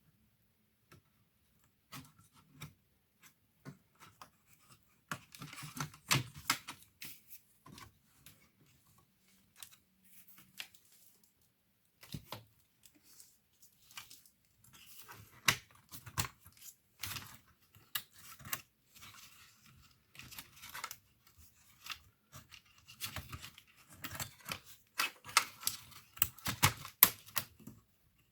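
Hands working on a laptop's parts at close range: irregular small clicks and taps, with short stretches of scraping and rustling handling noise.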